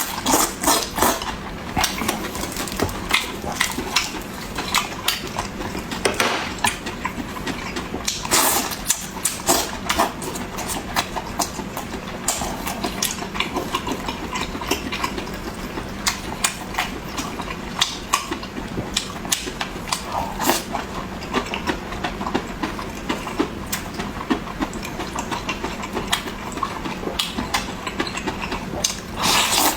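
Close-miked eating sounds: chewing and lip-smacking with quick, irregular crunchy clicks, broken by a few louder noisy bursts about a third of the way in and near the end.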